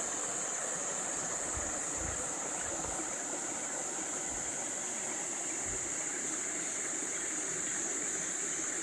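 Steady rush and splash of water running down a small artificial rooftop waterfall.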